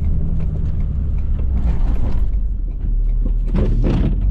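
Ford F-350's 6.7 L Powerstroke V8 turbo-diesel running with a steady low rumble, with a brief louder rushing, scraping noise about three and a half seconds in.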